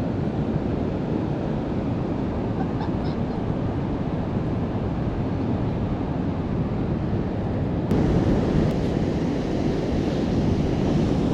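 Ocean surf and wind on the beach, with wind buffeting the microphone as a steady rushing noise that gets louder about eight seconds in.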